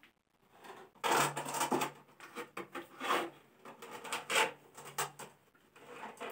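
Ceramic wall tiles being handled and slid against one another: an irregular series of scrapes and light knocks, the loudest about a second in.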